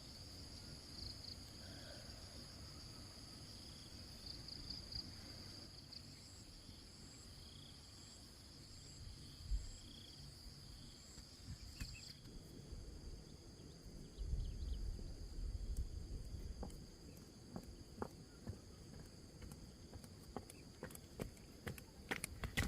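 Insects chirring steadily in the background, with soft low thumps and scattered clicks and knocks in the second half.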